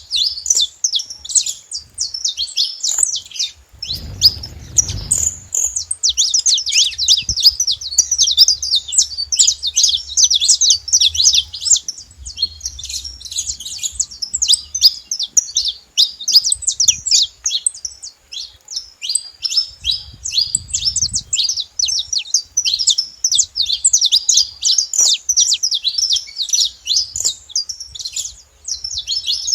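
Saffron finches chirping continuously, a dense stream of short, high, overlapping chirps. A brief low rumble comes about four seconds in.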